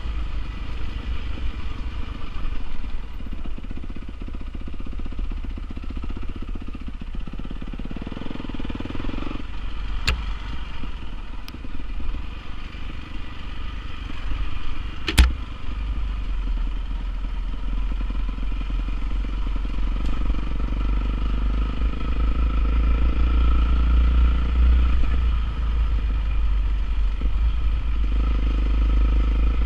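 Honda CRF450R motocross bike's single-cylinder four-stroke engine running, its revs rising and falling slowly over a heavy low rumble. There is a faint sharp click about ten seconds in and a loud sharp crack about fifteen seconds in, the loudest moment.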